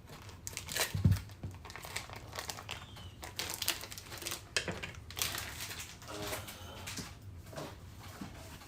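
Plastic sandwich bag crinkling and rustling as something is handled and pushed into it, with a dull thump about a second in.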